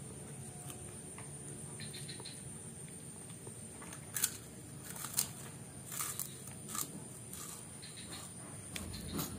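A child chewing kerupuk crackers with his mouth near the microphone: quiet at first, then a run of short, crisp crunches from about four seconds in.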